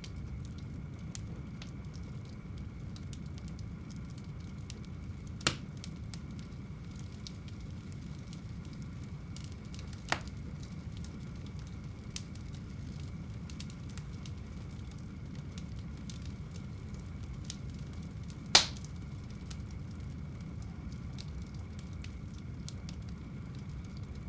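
Fire burning in a home fireplace: a steady low rumble with faint crackling, and three sharp loud pops spread through it, the last the loudest.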